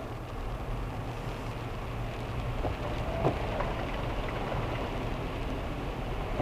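Car driving in heavy rain, heard from a dashcam inside the car: a steady hiss of rain and road water over a low engine and cabin hum. A short knock with a brief squeak comes about halfway through.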